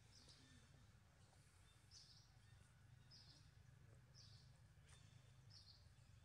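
Near silence: faint outdoor ambience with a low steady rumble and a bird's short high chirp repeating about once a second.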